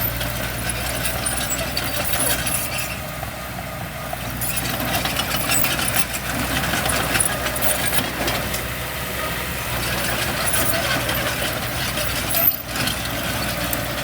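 Heavy diesel machinery running, a steady low engine drone with scattered clanks, and one sharp bang near the end.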